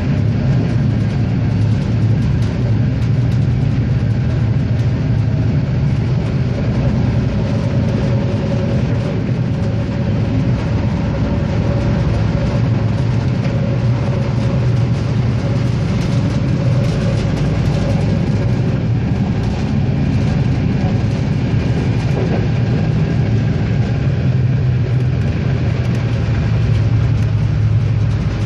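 RegioSprinter diesel railcar running along the line: a steady low engine and running drone with faint wheel-on-rail clicks, heard from on board.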